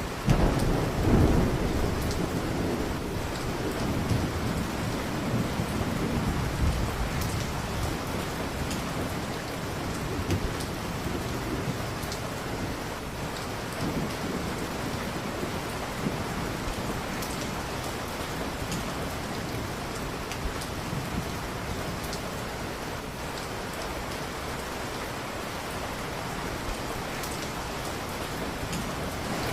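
Steady heavy rain hissing, with a peal of thunder that breaks about a second in and rumbles away over the next several seconds.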